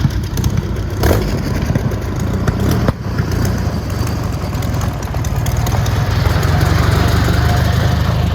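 A car engine running close by, slowly growing louder in the second half, with a couple of sharp clicks in the first few seconds.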